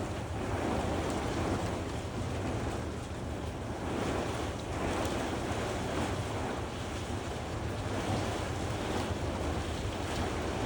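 Gusty thunderstorm wind, a steady roar that swells and eases every second or two, with wind buffeting the microphone.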